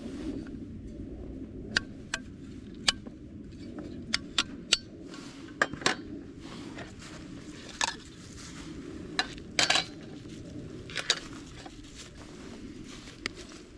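Metal camp cookware and utensils being handled: about a dozen sharp clinks and knocks at irregular intervals over a steady low background noise.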